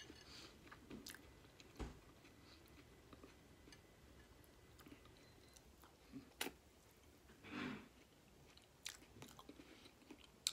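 Faint close-up chewing and biting of boiled food, with scattered small wet mouth clicks and a few sharper clicks.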